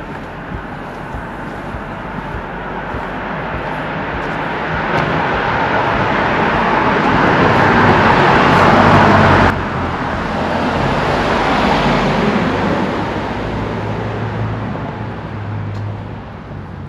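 Road vehicle passing close by, its tyre and engine noise building over several seconds to a peak before dropping off abruptly about halfway through. A second swell follows, with a low engine hum, and fades away.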